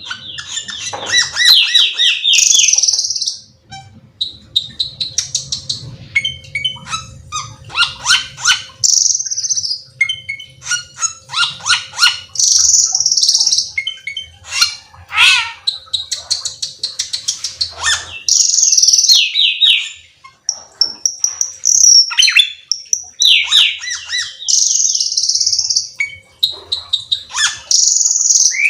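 Cucak keling singing: a varied, loud song of rapid trills, repeated descending chirp series and harsh squawking notes, in phrases with brief pauses.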